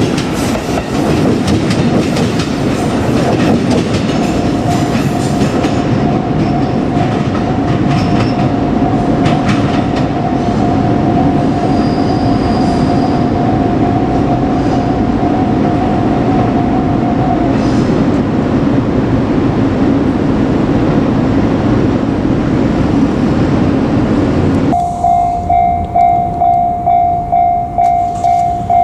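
JR Kyushu 787 series electric express train running past, its wheels clacking over the rail joints. About 25 seconds in, the train noise cuts off and a railway level-crossing alarm rings clearly, a repeating two-tone ding about twice a second.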